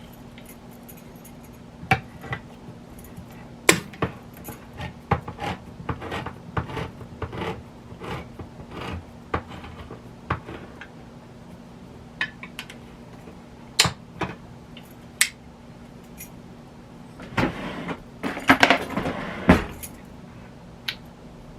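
Metal food cans being handled: scattered clinks, taps and knocks of tin cans, with a quick run of clattering and scraping near the end. A faint steady hum lies underneath.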